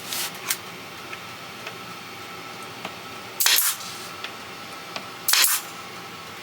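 Pneumatic nail gun firing nails into wood, each shot a short sharp burst with a puff of exhaust air. There are two light shots right at the start and two louder ones about 3.5 and 5.4 seconds in.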